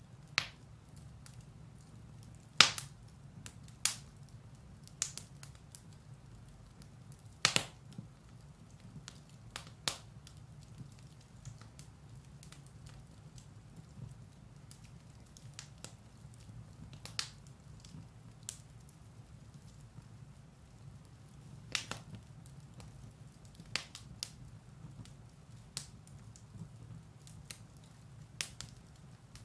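Firewood burning in a fireplace: a steady low rumble of flame with irregular sharp crackles and pops, the loudest a few seconds in and again around the middle of the first third.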